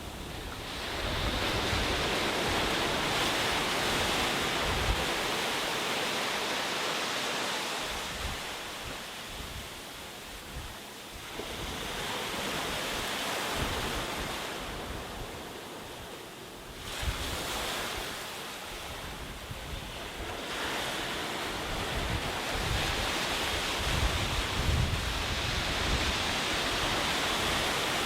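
Sea surf breaking and washing up a beach, swelling and easing every several seconds, with wind buffeting the microphone in low rumbles.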